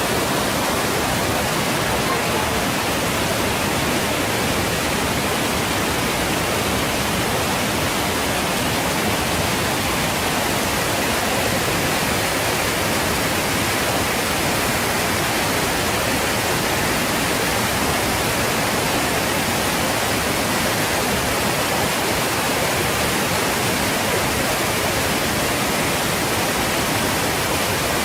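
Saluopa waterfall: a steady, loud rush of falling water that does not change.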